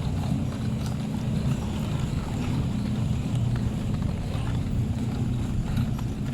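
A moving train's steady low rumble, heard from on board, with a few faint ticks and some wind on the microphone.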